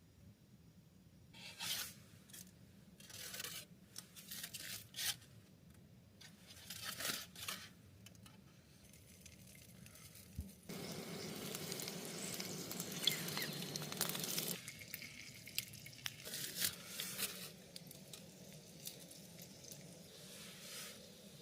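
Foil and plastic food wrappings crinkling and tearing in short bursts as they are unwrapped. Past the middle comes about four seconds of steady hiss that stops suddenly, followed by a few more crinkles.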